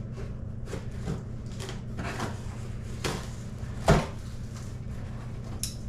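Cardboard box being opened and handled: flaps and packaging rustling and knocking, with one louder knock about four seconds in. A steady low hum runs underneath.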